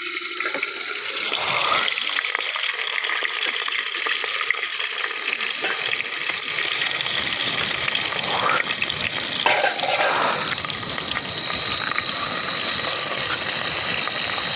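Food sizzling in hot oil in a pot on a portable gas stove: a steady hiss, with a few brief metal clinks of ladle and plate about two-thirds of the way in.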